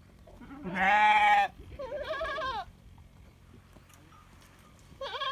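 Sheep and goats bleating: a loud bleat about a second in, a second bleat with a quavering pitch just after it, and another bleat starting near the end.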